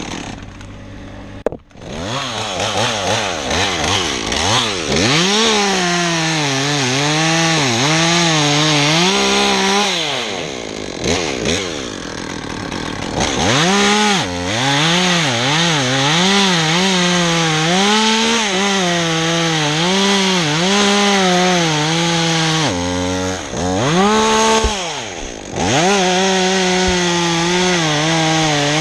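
Climber's chainsaw running at full throttle and cutting through a pine trunk in an angled spear cut, its pitch wavering as it labours in the wood. It drops back briefly about a second and a half in and again a couple of times later.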